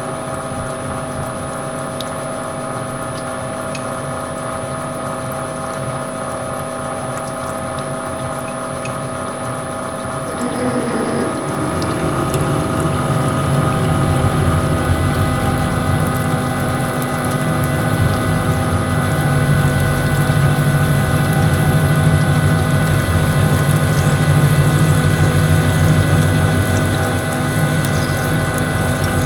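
Metal lathe running with a steady gear whine made of several fixed tones. About ten seconds in, a louder, rougher low rumble joins and stays.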